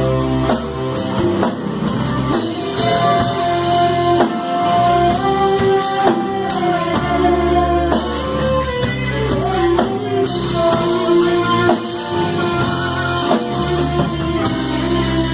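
Worship band music: guitars, bass and drum kit playing, with a gliding melody line over a steady beat.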